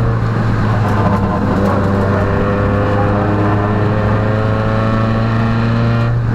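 Peugeot rally car's engine running hard at steady, high revs, heard from inside the cabin, its note easing off and changing near the end.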